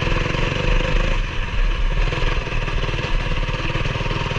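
Coleman BT200X mini bike's small single-cylinder four-stroke engine running steadily under load as it is ridden through soft sand on a trail.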